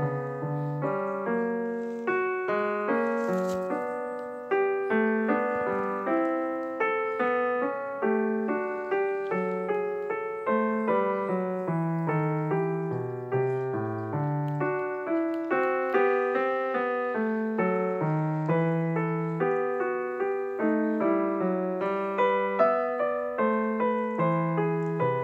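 Solo piano music: a continuous flow of notes, each struck and then dying away.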